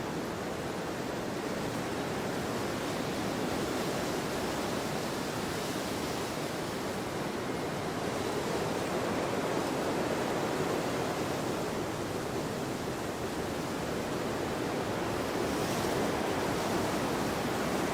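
Wind blowing across a field: a steady rushing noise that slowly swells and eases.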